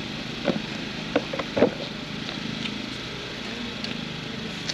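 Steady low hum of an engine idling, with a few short sharp sounds in the first two seconds.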